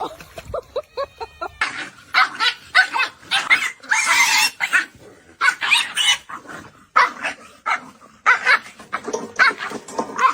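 A dog barking and yipping in quick runs of short, high calls with brief pauses, softer in the first second or so and then loud.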